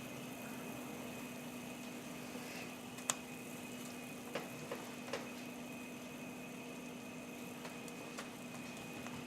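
Pot of chicken stock at a boil as dumpling strips are dropped in: a steady bubbling hiss over a faint constant hum, with a few light clicks.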